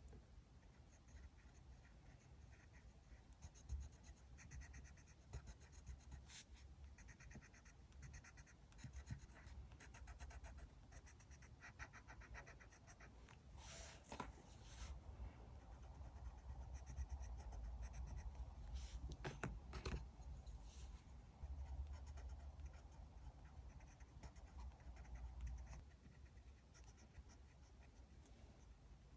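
Faint scratching of a pen writing on diary paper, with a few brief, louder paper rustles about halfway through.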